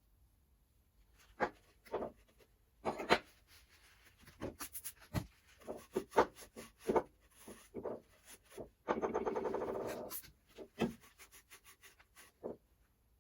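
Hand work on the metal parts of a rear radius arm assembly: a run of separate knocks, clinks and scrapes, with a rasping rattle lasting about a second roughly nine seconds in.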